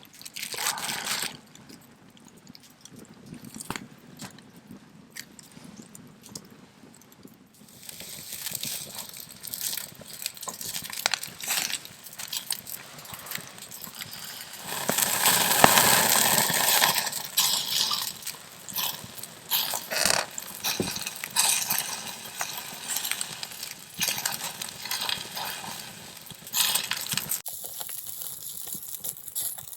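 Wood campfire embers crackling with irregular pops and clicks, with a louder hissing stretch about halfway through.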